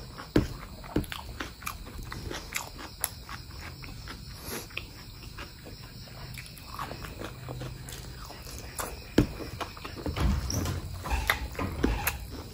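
A person eating spicy mutton fat curry with rice, picked up close for ASMR: chewing with many irregular wet clicks and smacks, a little fuller about ten seconds in.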